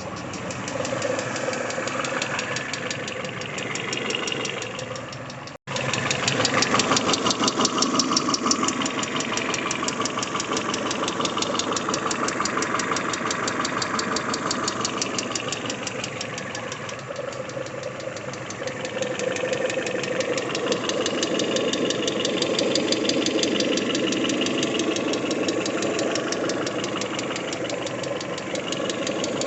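Peugeot 406 Coupé engine idling with a fast, steady ticking knock from the top end, which the owner puts down to the hydraulic lifters.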